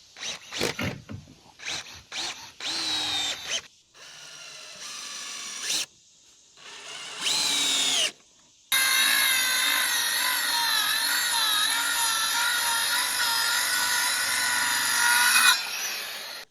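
Power drill driving screws into wooden dock boards. A few short knocks and brief runs come first, then the motor spins up twice, and finally it makes one long steady run of about seven seconds that cuts off suddenly near the end.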